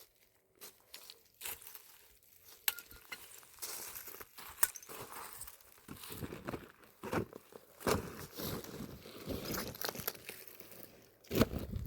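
Irregular rustling and crinkling, with scattered sharp clicks and snaps.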